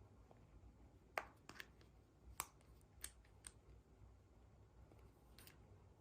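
Faint, scattered sharp clicks and crackles of small plastic toys and packaging being handled, about six over a few seconds, the sharpest about a second in, over a low room hum.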